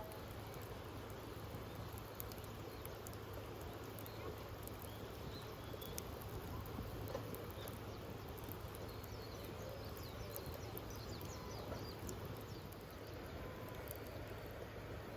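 Wood campfire crackling, with scattered small pops over a steady hiss.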